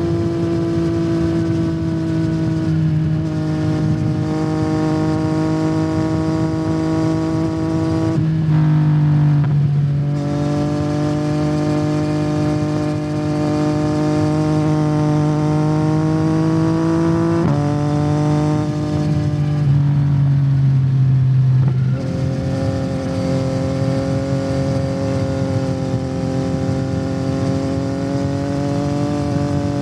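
2021 Yamaha MT-09's three-cylinder engine running through a Yoshimura R77 carbon exhaust while riding. The engine note holds fairly steady and shifts pitch in sudden steps a few times: down about a third of the way in, up again shortly after, and down twice more later on.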